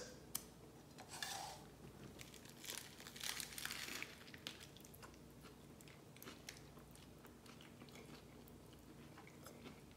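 Faint crunching bites and chewing of a lettuce-wrapped burger with bacon, the crunching loudest in the first few seconds, then softer chewing.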